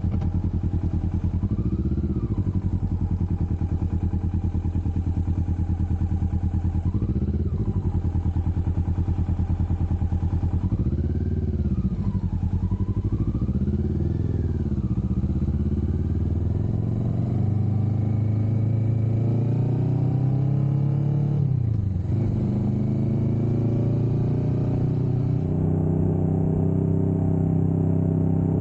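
Kawasaki Vulcan S 650's parallel-twin engine running at low revs, then pulling up through the revs about halfway through, with a brief drop in revs at a gear change before it settles at a steady higher pitch.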